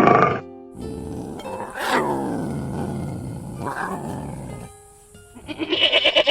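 An animal growling and roaring in long, rough calls that fall in pitch, over background music; a different, higher-pitched animal call begins near the end.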